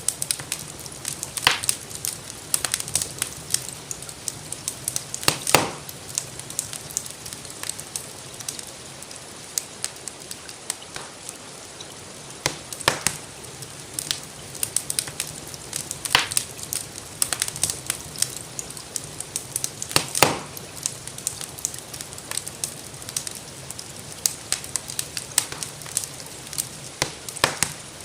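Wood fire in a fireplace crackling, with irregular sharp pops, a few of them louder, over a steady hiss of rainfall.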